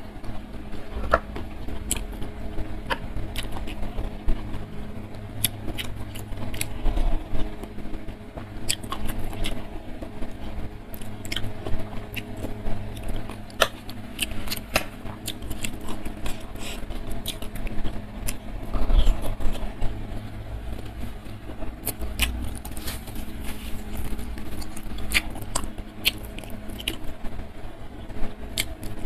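Close-miked chewing and mouth sounds of a person eating rice and side dishes by hand, with many short wet clicks and smacks scattered throughout. A steady low hum runs underneath.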